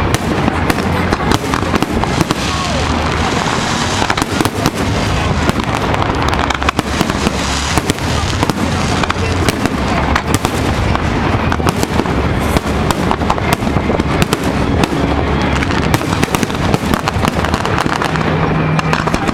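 Fireworks display: a continuous barrage of bursting shells and crackling, the reports coming thick and fast with no break.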